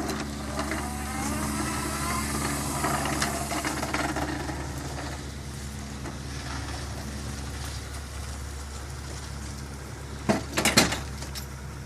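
Electric motor whirring steadily with a wavering whine over it, fading out about eight seconds in; a few sharp knocks follow near the end.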